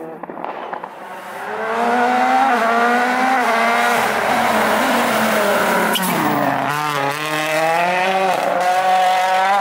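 Turbocharged four-cylinder rally car coming through at full attack. The engine builds in about a second in, and its note rises and falls as it changes gear and lifts for corners. There is a sharp crack about six seconds in, then the engine pulls hard again.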